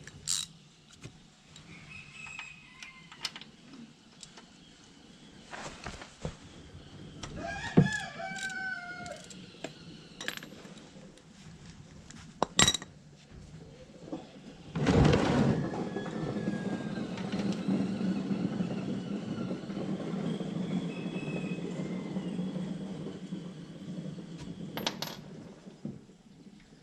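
Scattered metallic clinks and clicks of tools being handled under a car. A drawn-out animal call in the background, about eight seconds in. From about the middle, a steady rushing noise that lasts some ten seconds.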